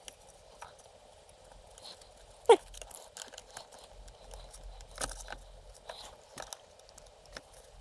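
Small clicks and taps of tools and tiny parts being handled during bench work on a model locomotive's light wiring, with one sharper click about two and a half seconds in.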